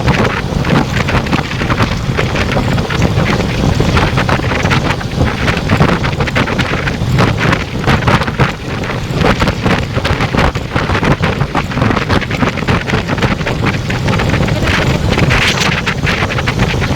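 Heavy wind buffeting on the microphone from riding a motorcycle at highway speed, with engine and road noise underneath.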